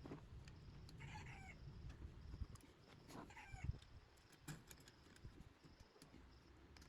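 Faint animal calls, two short curving cries about a second apart from the next, over quiet clicks and knocks.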